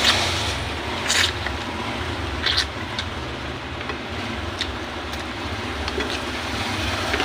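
Steady background rumble and hiss with a low hum, broken by a few short sharp clicks and clinks, the brightest about a second in and around two and a half seconds in.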